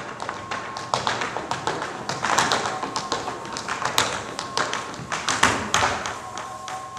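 Tap shoes striking a stage floor in fast, irregular runs of sharp taps, some strikes louder than others.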